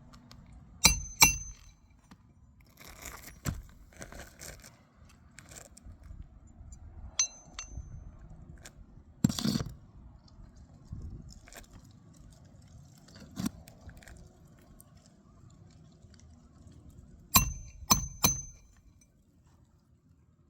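Metal roofing hand tools clinking sharply with a short high ring, a pair about a second in, two more a few seconds later and three close together near the end, with soft scraping on the asphalt shingles in between.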